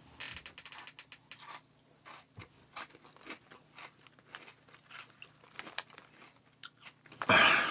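Crunchy spicy potato sticks (Karamucho) being chewed with the mouth close to the microphone: irregular crisp crunches, several a second, with a brief louder noise near the end.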